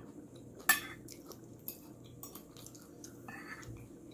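Cutlery clinking against a plate or bowl during eating: one sharp clink a little under a second in, then several lighter taps and clicks.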